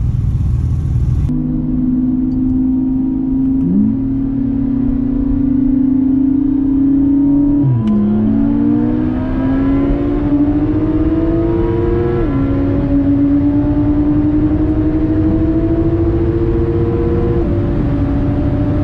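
A car accelerating hard through the gears: the engine note climbs steadily in each gear and drops abruptly at each of four upshifts, spaced a few seconds apart.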